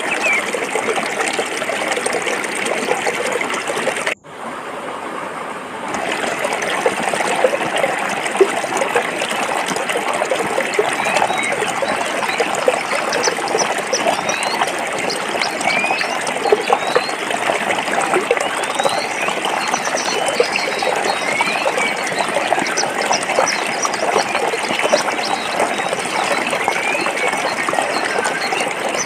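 Stream water flowing over rocks: a steady rush and trickle. About four seconds in the sound cuts out abruptly and fades back up over about two seconds.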